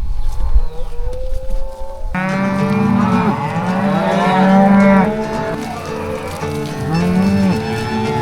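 A herd of cattle mooing, with many calls overlapping, starting about two seconds in after a low rumbling noise.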